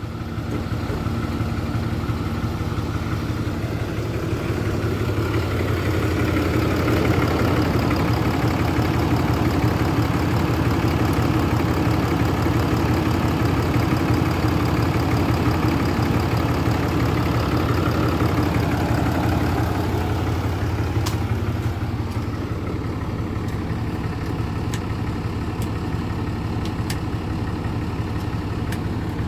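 An engine idling steadily, growing louder about six seconds in and easing back down at about twenty seconds.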